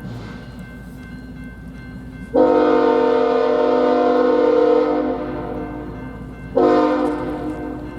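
Freight locomotive's multi-chime air horn sounding one long blast starting a couple of seconds in, then a short blast near the end, part of the grade-crossing horn signal. A low locomotive rumble runs beneath between blasts.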